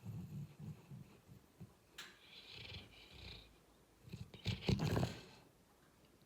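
Labrador retriever snoring in its sleep, loud: a rattling snore trailing off in the first second or so, a breathy draw of air a couple of seconds in, then another loud snore about four and a half seconds in.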